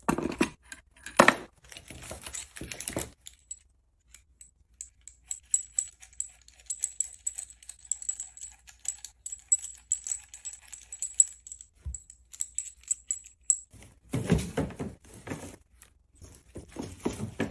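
Small metal parts of a hydraulic hose-crimper kit clinking and rattling as they are handled: a cluster of clicks in the first few seconds, a quieter stretch, then more clinking and rattling near the end.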